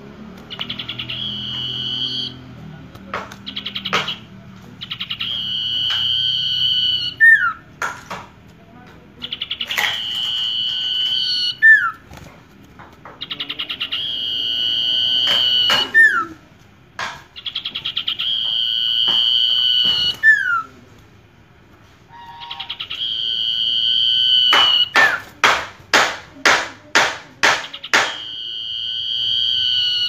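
Common iora (sirtu) singing: a drawn-out trilled whistle held at one pitch for one to two seconds, each phrase ending in a short falling note, repeated over and over. Near the end comes a quick run of about eight sharp clicks.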